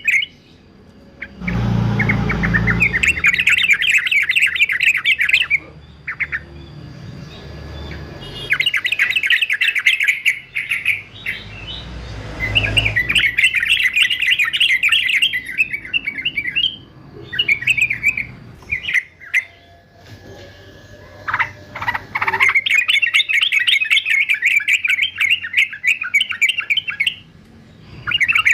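Male yellow-vented bulbul singing in repeated bursts of fast, dense chattering notes, each phrase a few seconds long with short pauses between. This is the aggressive 'fighter' song used to train bulbuls.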